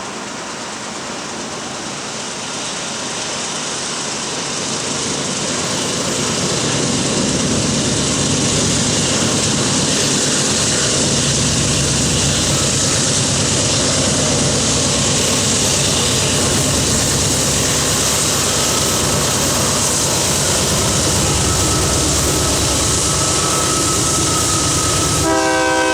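Two GE AC4400CW diesel-electric locomotives, with 16-cylinder GE 7FDL engines, running as they approach leading a coal train; the sound grows louder over the first several seconds and then holds steady. Near the end the locomotive air horn starts to sound.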